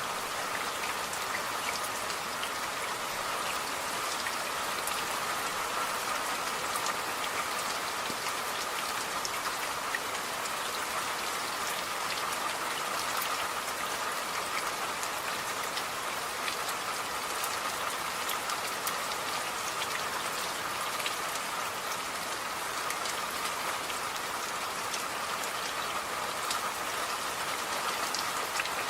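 Steady rain, a dense even hiss with many sharp little drop ticks scattered through it.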